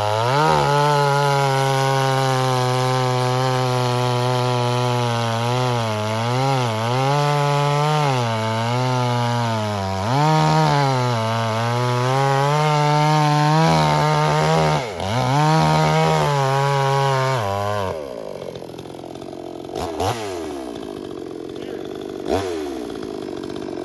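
Pinkway 63cc two-stroke chainsaw at full throttle cutting through a log, its engine note repeatedly sagging under load and picking up again. About three-quarters of the way through it drops to idle, with two short revs near the end. The owner suspects the saw bogs because the chain does not clear sawdust from the kerf.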